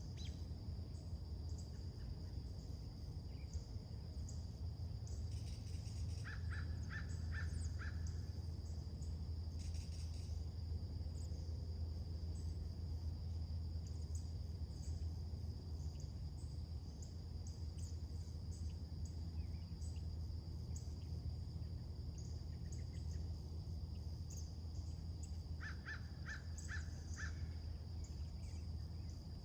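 A bird calls in two runs of about five quick repeated notes, a few seconds in and again near the end, among scattered high chirps from other birds. Under them runs a steady high-pitched insect drone, typical of late-summer crickets or katydids, and a steady low hum.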